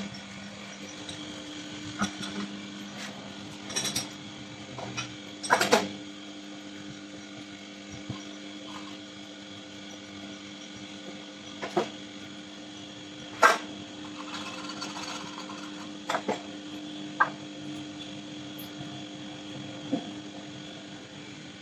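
Lathe running with a steady machine hum, with about eight short knocks and clinks of metal scattered through it.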